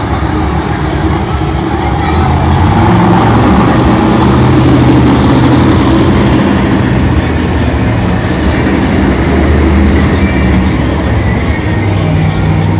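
Monster truck engine running loud, its pitch stepping up and down several times as it revs.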